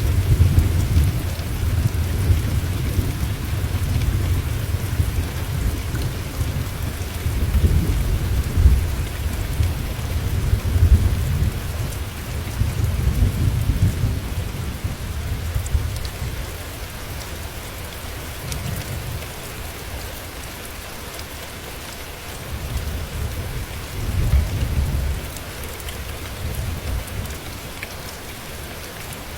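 Steady rain hissing, under rolling thunder. The deep rumble swells and fades again and again, dies down past the middle, then swells once more shortly before the end.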